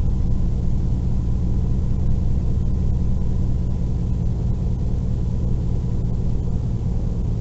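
Truck engine and road noise while driving: a steady low rumble.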